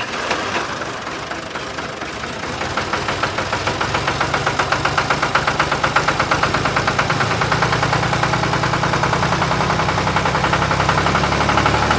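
An engine running steadily with a rapid, regular chugging pulse that becomes clearer and slightly louder after the first few seconds.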